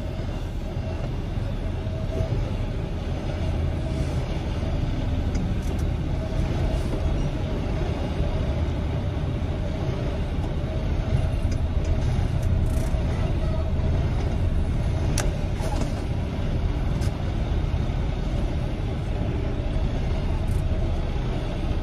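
Semi truck's diesel engine running steadily at low revs during a slow backing manoeuvre, with a few sharp clicks, the clearest about two-thirds of the way through.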